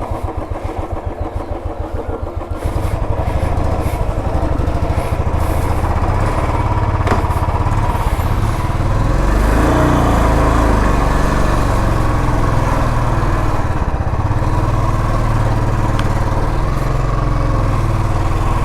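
Royal Enfield motorcycle engine running just after being started: an even putter at first, growing louder and fuller about three seconds in, with a brief rev about nine seconds in before settling back to a steady idle.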